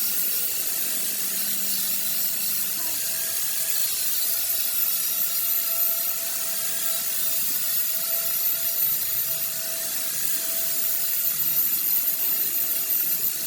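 A workshop power tool running steadily: a bright, even hiss with a faint steady whine underneath, swelling slightly now and then.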